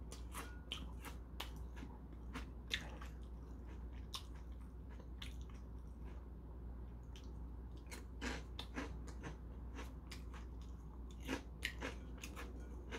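Crisp shrimp crackers (Saewookkang Black) being bitten and chewed close to the microphone: scattered sharp crunches, more of them about two-thirds of the way in and near the end, over a low steady hum.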